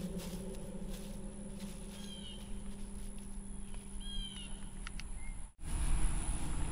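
Outdoor ambience with two short bird chirps, about two and four seconds in. Near the end the sound drops out for a moment and comes back with a louder low rumble.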